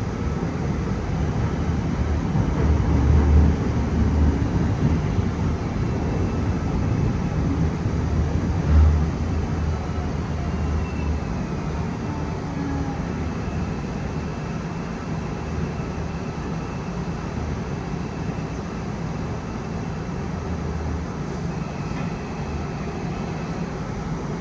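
Busan Metro Line 1 electric train (set W143) running on the rails, heard from inside the car: a steady wheel-and-track rumble with a faint motor whine. Two louder low booms come a few seconds in and again near the middle, then the sound gradually eases as the train slows for the next station.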